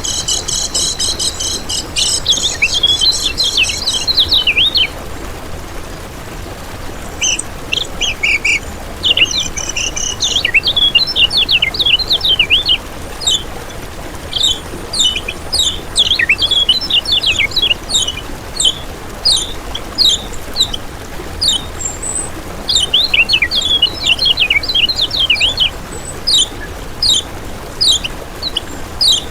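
Kecial kuning (velvet-fronted nuthatch) calling: series of short, sharp, high chirps that fall in pitch, given in rapid bursts with brief gaps. For the first four seconds or so a steady, high, insect-like buzzing trill sounds before the chirping starts.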